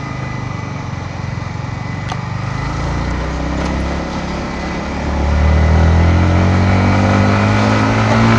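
Yamaha MT-15 V2's single-cylinder engine with its stock exhaust, heard from the saddle while riding. About five seconds in it gets louder and its pitch climbs slowly as the bike accelerates.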